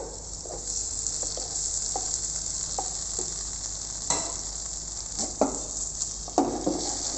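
Chopped tomatoes sizzling in a hot pan with butter-sautéed garlic, onion and tomato paste, being stirred, with a few sharp knocks of the utensil against the pan, the clearest about four, five and a half and six and a half seconds in.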